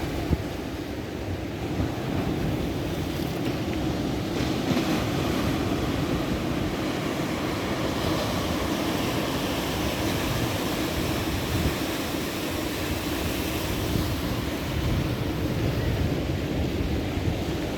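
Ocean surf washing in continuously, a steady low rushing noise that swells and eases slightly as waves break.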